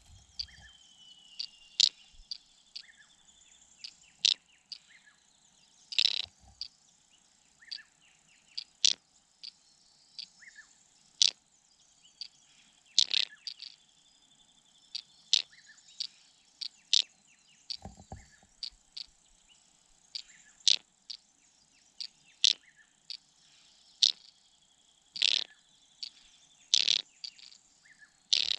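Small birds giving short, sharp chip calls, irregularly about once a second, over a faint steady high-pitched insect drone.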